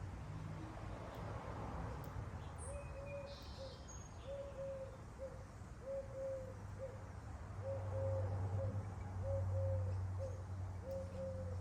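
A dove cooing, a soft low coo repeated in long-short pairs about six times, over a steady low background rumble. A small bird chirps briefly once.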